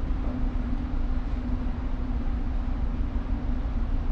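Steady low rumble and hum of a tanker's running machinery, with a constant humming tone over a deep drone while the engine turns at slow ahead during berthing.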